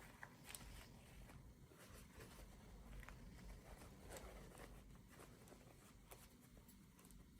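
Near silence, with faint scattered clicks and rustles from small packaging being handled.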